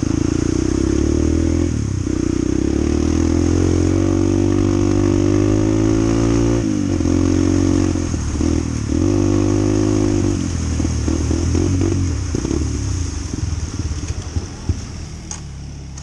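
Honda CT125 motorcycle's single-cylinder four-stroke engine revving hard, its pitch rising and falling over and over, then dropping lower and quieter over the last couple of seconds.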